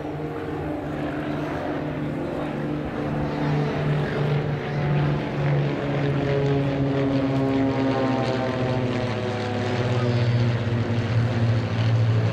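Propeller-driven Beechcraft Bonanzas flying past in formation, their piston engines making a steady drone. The engine pitch slides down in the middle stretch, and the sound grows louder toward the end.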